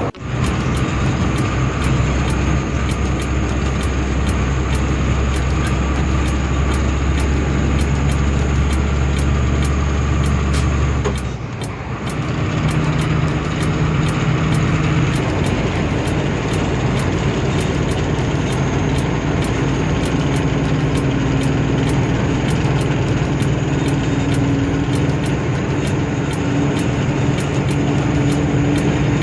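A ten-wheeler Tata truck's diesel engine running, heard from inside the cab while driving. A deep steady drone gives way about eleven seconds in to a short drop in level, after which the engine note climbs slowly.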